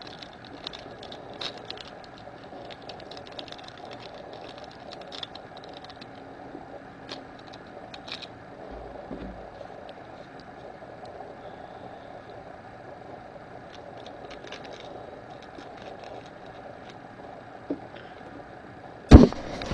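A steady low background hum with faint scattered clicks and light handling noises, then two loud knocks close together near the end.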